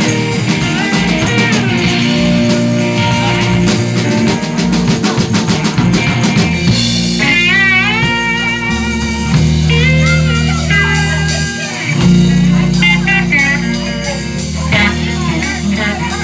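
A live rock band playing guitar, bass and drums. From about seven seconds in, a lead line of bent, gliding notes rises over the band.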